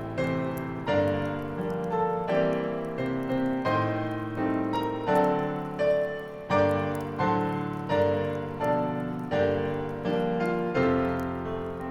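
Solo piano playing a calm Christmas song arrangement, melody over sustained chords at an unhurried, even pace.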